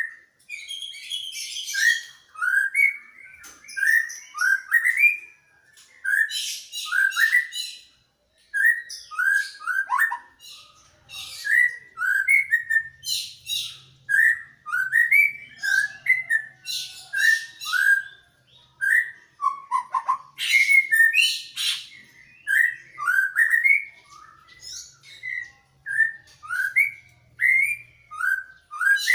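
Greater green leafbird (cucak ijo) and white-rumped shama (murai Medan) singing back and forth: a steady run of short rising whistled notes mixed with quick, very high chattering phrases.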